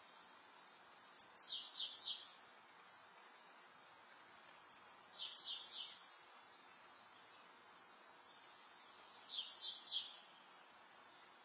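A small songbird singing the same short high-pitched phrase three times, about every four seconds. Each phrase is a brief lead-in note followed by a quick run of three or four falling notes, over faint steady outdoor background noise.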